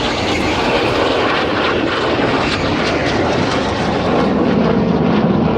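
Two BAE Hawk T1 jet trainers of the Red Arrows synchro pair flying an opposition barrel roll. A loud, steady jet roar whose hiss grows duller over the few seconds.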